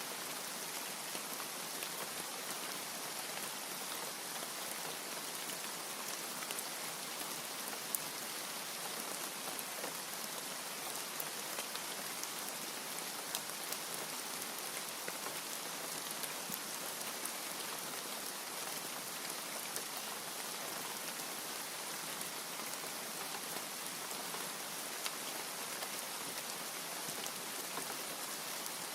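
Steady heavy rain falling, with scattered sharper drop ticks, the loudest about eight seconds in.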